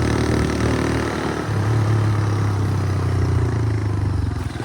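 Motorcycle engine running at a steady note while riding, dipping briefly near the end before picking up again.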